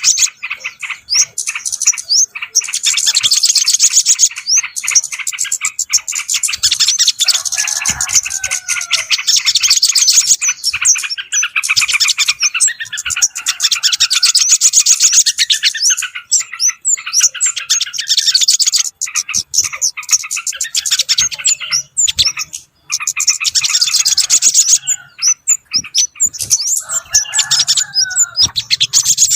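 Bird-lure recording for yellow-vented bulbuls and other small birds: dense, rapid, high chirping of small birds going on without a break. Lower bubbly phrases break in about a quarter of the way through and again near the end.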